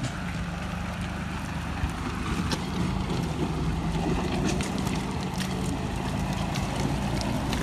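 Deutz-Fahr 4055 tractor engine running steadily as the tractor drives off, with a few sharp clanks.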